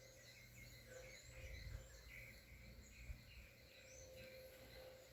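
Near silence: faint outdoor ambience with scattered short bird chirps over a low rumble.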